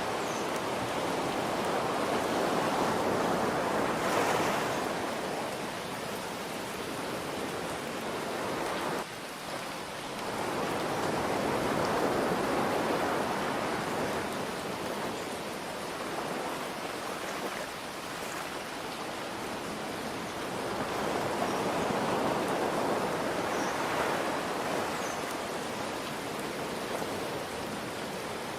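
Ocean waves washing in, swelling and fading three times, over a steady hiss of rain.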